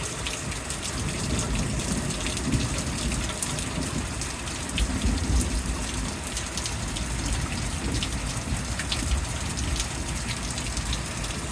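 Heavy rain pouring down steadily in a thunderstorm, with a low rumble underneath that swells around the middle.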